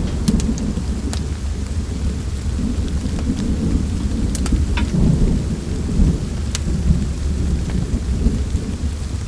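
Steady rain with a continuous low rumble of thunder. A handful of sharp crackles and pops from a wood fire come through at scattered moments.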